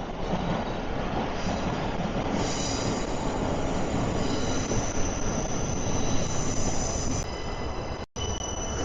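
A train running in the station, its wheels squealing on the rails with high steady tones from about two seconds in, over the rumble. The audio cuts out for an instant near the end.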